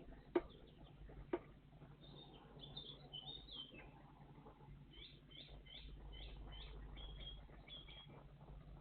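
Small songbirds chirping, with a run of about six quick repeated notes about five seconds in and a few more after. Two sharp taps come in the first second and a half.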